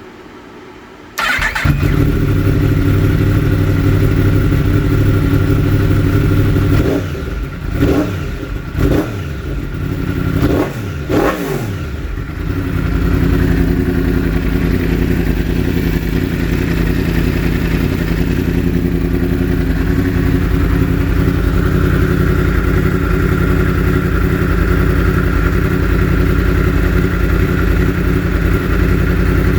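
2016 Yamaha R1's crossplane inline-four engine starting about a second in and idling steadily, then running unevenly for about five seconds with repeated dips and swings in pitch before settling back to a steady idle. The uneven stretch fits the misfire the owner reports when the riding mode is changed.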